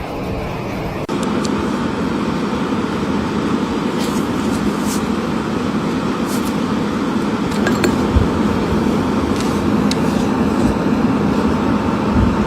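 Steady mechanical rumble with a constant low hum, and a few faint clicks over it; it steps up slightly about a second in.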